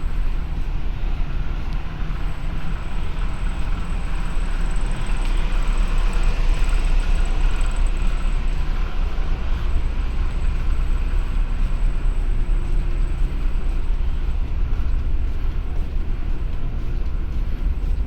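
Steady low rumble of a large passenger ferry underway, its engines and hull noise running continuously under an even rushing haze.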